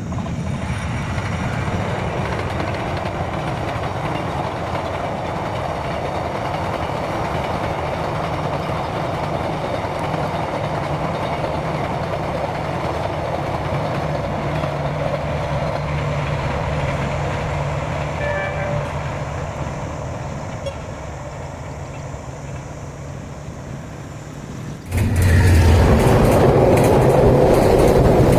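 A train running on the rails: a steady rumble with a low hum. About 25 seconds in the sound jumps suddenly to a louder, fuller rumble.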